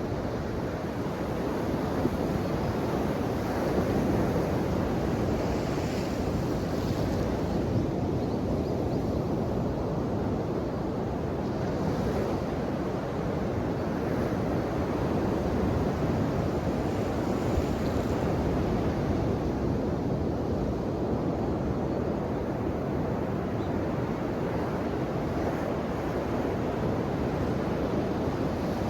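Ocean waves breaking and washing ashore: a steady, deep rush of surf, with brief brighter hissing washes about six seconds in and again near twelve seconds.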